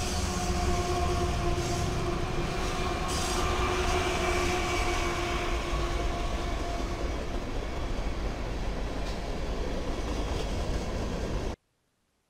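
Diesel freight locomotives in BNSF and CN paint passing close by, with a heavy low engine rumble and rolling wheel noise. A steady whine rides over it and fades out about seven seconds in. The sound cuts off suddenly near the end.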